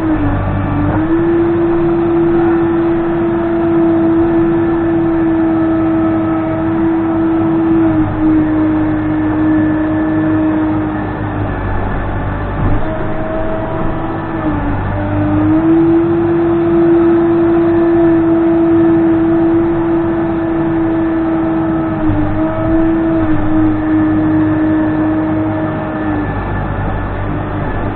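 Case 580N backhoe loader's diesel engine running hard, its pitch dropping and picking up again several times.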